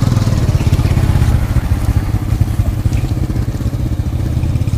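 A small motorcycle engine running steadily close by, with a low, rapid pulsing.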